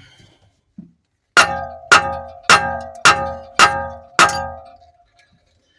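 Six evenly spaced ringing strikes of metal on metal, about two a second, each leaving a short bell-like ring.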